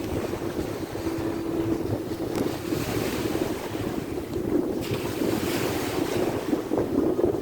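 Wind buffeting the microphone over sea waves washing onto the shore. The hiss of the surf swells twice, about three and five seconds in.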